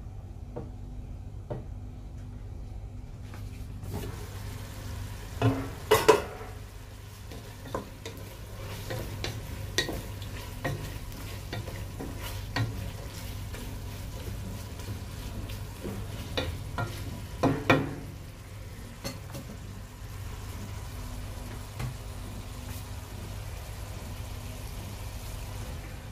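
Diced meat and carrot strips sautéing in a pot, sizzling from about four seconds in, while a wooden spatula stirs and scrapes them with many small clicks. Louder clatters of the spatula against the pot come about six and about seventeen seconds in.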